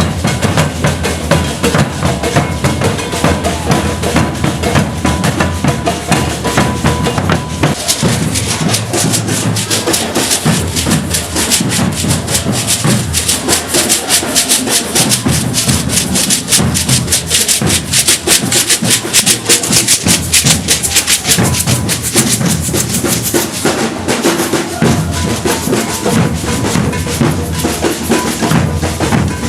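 Maracatu de baque virado drum ensemble playing: alfaia bass drums under snare drums and shakers in a dense, driving rhythm. The crisp high strokes grow denser through the middle and ease back near the end.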